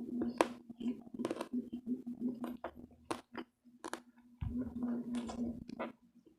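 A person chewing close to the microphone with repeated sharp crunches, eating crispy fried pork belly (lechon kawali). A low steady hum runs underneath.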